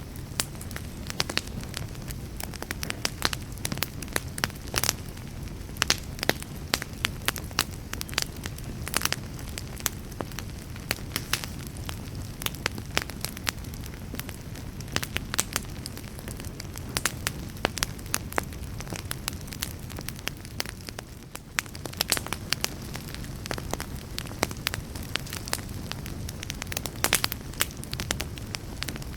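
Wood fire burning in a fireplace, crackling steadily over a low rumble of the flames, with frequent sharp irregular pops and snaps.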